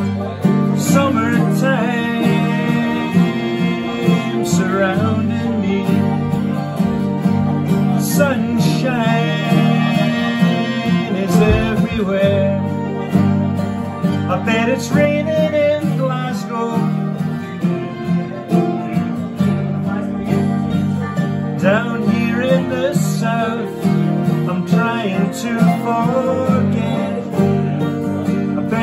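Live acoustic folk music: guitar accompaniment with a wavering melody line above it.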